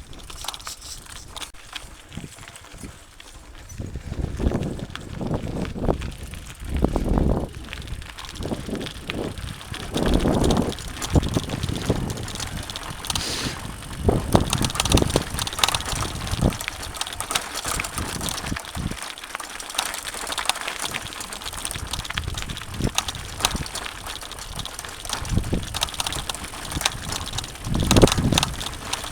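Mountain bike ridden over a rough dirt trail: tyre noise with a constant patter of small clicks and rattles from the bike, and heavier low rumbles at times.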